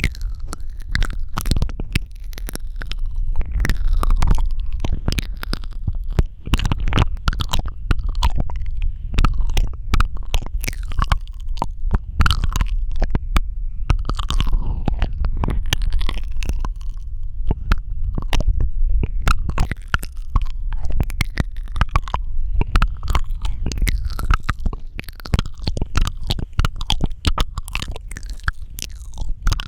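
Close-miked ASMR mouth sounds: rapid wet clicks, smacks and sucking noises from the lips and tongue, coming thick and fast, with a heavy low rumble from handling of the sensitive microphone.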